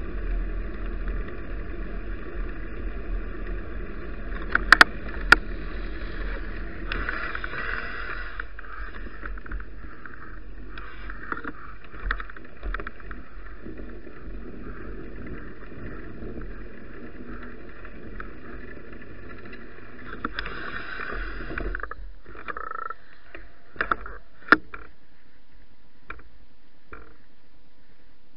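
Wind and road rumble picked up by a bicycle-mounted action camera while riding, with a few sharp knocks. The rumble drops away after about twenty-two seconds, leaving a quieter steady hiss.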